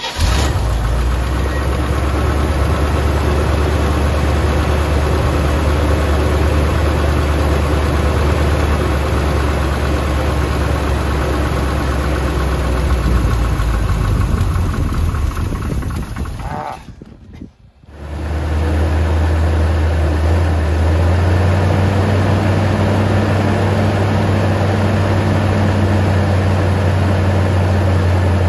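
1977 Corvette's L82 small-block V8, carburetted by a Quadrajet whose choke is not working right, catching and then idling steadily. It cuts out briefly about two-thirds of the way through, then runs again, its idle stepping up a little soon after.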